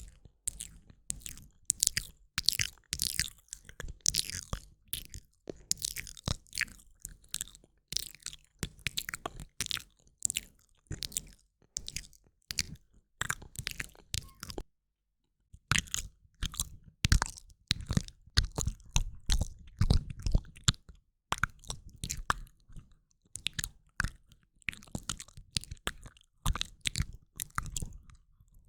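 Close-up ASMR mouth sounds: a rapid, irregular run of wet clicks and smacks from tongue and lips, with a pause of about a second near the middle.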